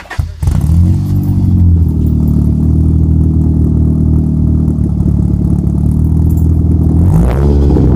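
Car engine with a loud exhaust starting up: it catches about half a second in, flares briefly, and settles into a steady, loud idle, then is revved near the end.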